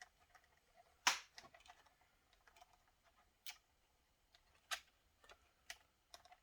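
Irregular sharp plastic clicks and taps as laptop parts are handled: a replacement screen is tried against the laptop's housing. The loudest click comes about a second in, with several fainter ones spread over the following seconds.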